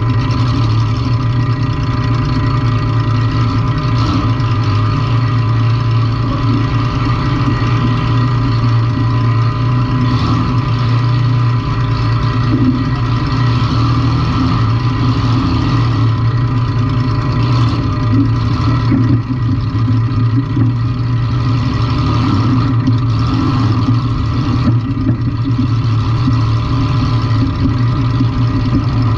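Compact demolition-derby car's engine running with a steady, loud drone and little change in pitch.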